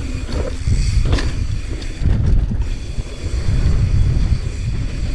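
Wind buffeting the microphone of a mountain bike riding fast down a dirt trail, with the bike knocking and rattling over the ground a few times.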